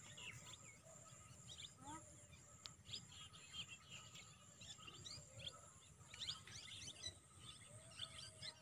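Faint, scattered bird chirps and short calls over quiet open-air ambience.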